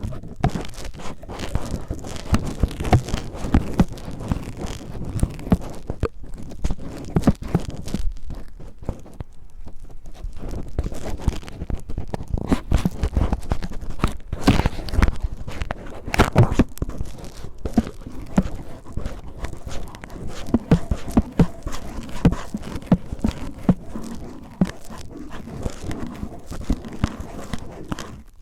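Cellophane crinkled and rubbed in rough, scratchy strokes, a dense run of crackles and small clicks that imitates the sound of ear cleaning.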